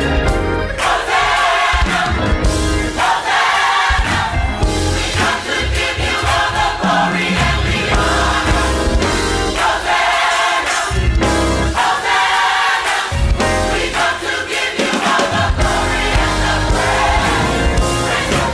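A gospel choir singing with instrumental accompaniment.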